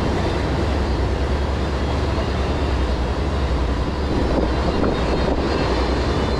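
Motorboat underway: a steady, loud low engine drone mixed with rushing wind and water noise.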